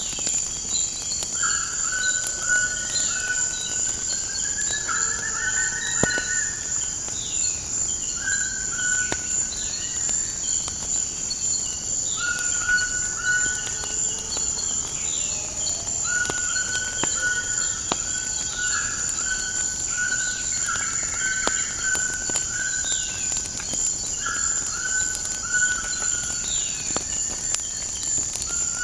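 Nature ambience: a steady high-pitched insect drone, with birds calling in repeated whistled notes and short chirps. Scattered crackles from a wood fire run through it.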